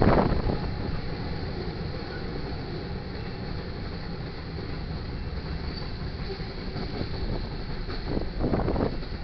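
Manifest freight train rolling past: a steady rumble of wheels on rail, with louder clatter at the start and again about eight seconds in.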